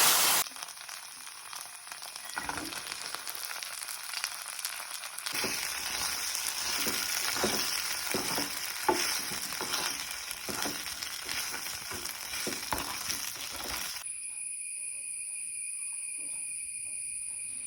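Shallot and spice masala with tomato sauce sizzling in oil in a pan while a spoon stirs it, with frequent scraping knocks against the pan from about five seconds in. Near the end the sizzling stops abruptly and a steady high-pitched whine remains.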